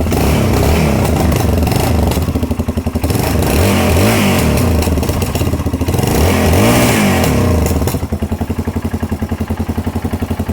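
Yamaha XT 660 single-cylinder four-stroke engine revved in about four throttle blips, then dropping back to idle near the end. Its exhaust note comes through the stock muffler, with small holes drilled in the muffler's internal steel baffle plate to make it louder.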